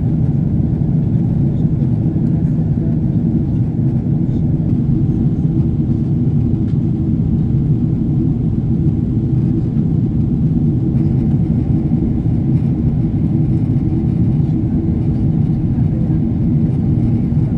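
Steady low cabin drone of a Boeing 777-300ER in flight, heard from inside the passenger cabin: airflow and the GE90 engines making an even rumble with no breaks.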